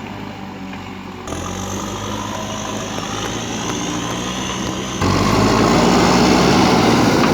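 JCB backhoe loader's diesel engine running steadily, with two sudden jumps in loudness, about a second in and about five seconds in, the last stretch the loudest.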